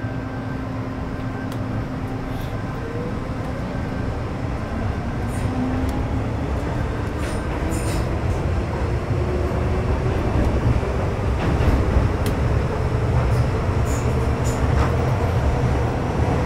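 Metro Cammell M-Train EMU with GEC GTO chopper traction, heard from inside the car as the train pulls away. The traction motor whine rises steadily in pitch over a low running rumble, with occasional clicks from the wheels and track, and grows louder throughout.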